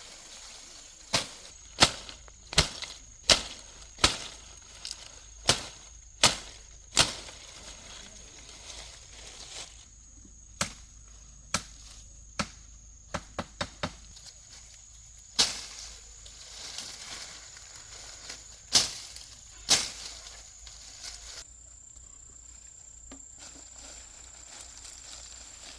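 A series of sharp chopping strikes, about fifteen in all at irregular spacing, some in quick runs and others a second or more apart. A steady high insect drone runs behind them.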